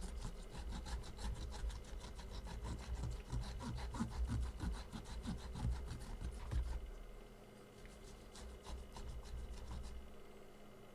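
Rapid back-and-forth scrubbing, about five strokes a second, of a stiff brush on an electronic circuit board being cleaned with isopropyl alcohol. The strokes stop about seven seconds in, then resume more faintly for a couple of seconds.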